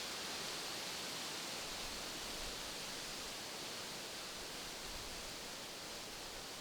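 Wind rustling through the leaves of trees: a steady, even hiss without distinct gusts.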